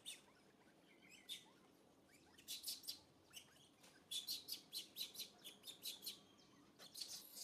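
Faint bird chirping: quick runs of short, high chirps, several a second, with a quieter stretch in the first couple of seconds.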